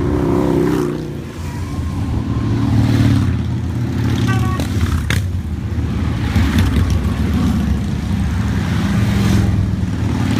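Motorcycles riding past in a continuous stream, their engines rumbling steadily and rising and falling as bikes go by, with a short horn toot about four seconds in.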